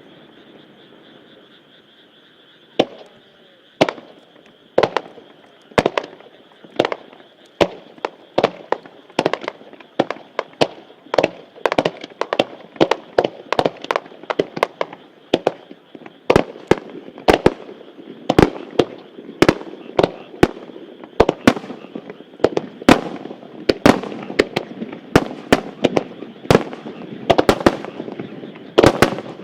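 Star mine fireworks barrage: aerial shells bursting in a rapid string of sharp bangs. After a quieter first few seconds the bangs come about once a second, then quicken to two or three a second.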